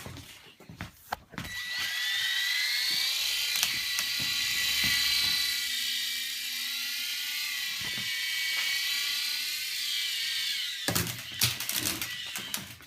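Toy RC helicopter's small electric motors and rotor spinning up with a high whine, running steadily for about nine seconds, then cutting out in a clatter of knocks near the end as it comes down hard.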